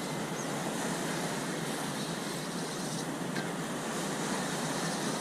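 Steady wash of sea and wind noise, an even hiss with no distinct knocks, clicks or voices.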